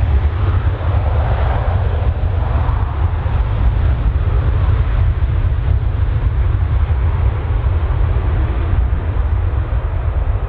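Airliner's jet engines running, a steady rumble and rushing noise that swells slightly about one to three seconds in.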